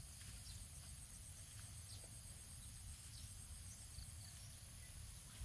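Faint rural ambience: a steady high-pitched insect drone over a low rumble, with a few faint short chirps.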